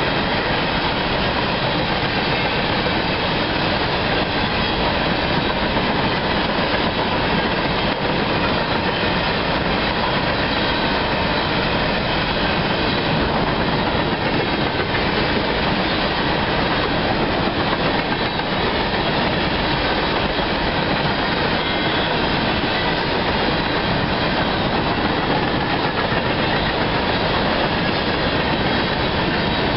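Cars of a CSX empty coal train rolling past at speed: a steady, loud noise of steel wheels on the rails that does not change.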